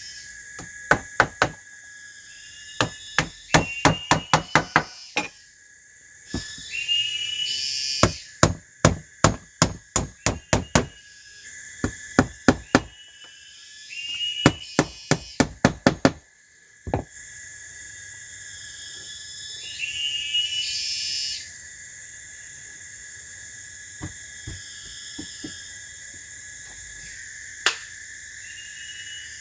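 Runs of sharp chopping strikes, several a second in quick bursts, that stop about sixteen seconds in. A steady chorus of forest insects and frogs, with repeated rising chirps, carries on throughout.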